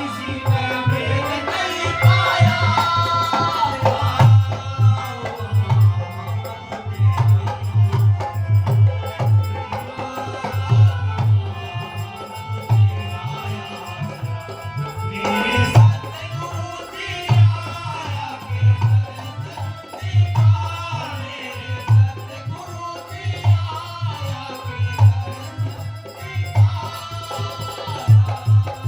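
Devotional shabad singing with drum accompaniment: a steady rhythm of low drum beats under a singing voice and melody, with rattle-like percussion.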